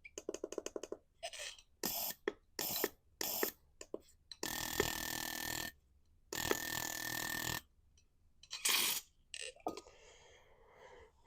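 Fuel injector being fired on a pulse tester: a fast run of clicks, then several short spray spurts, then two longer spray bursts of about a second each with a steady high tone, and one more short spurt near the end.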